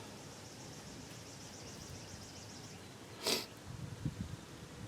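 A short, sharp breathy burst like a snort or sniff about three seconds in, the loudest sound, followed by a few light knocks from handling brake parts. Before it, a faint rapid high trill, like a bird's, sounds for about two seconds.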